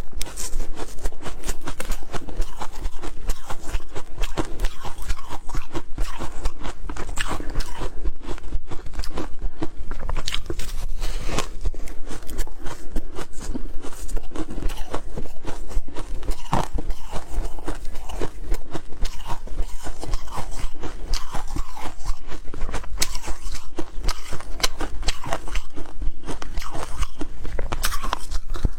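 Close-miked crunching of ice being bitten and chewed: dense, irregular crackles and snaps that go on without a break.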